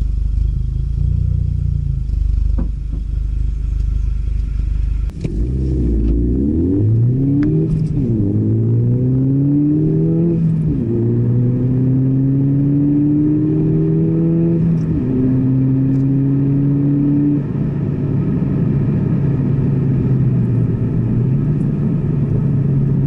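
Ford Fiesta ST's turbocharged engine under acceleration. After a low rumble, about five seconds in it revs up through the gears, its pitch rising and dropping back at each of three upshifts. It then settles to a steady cruise.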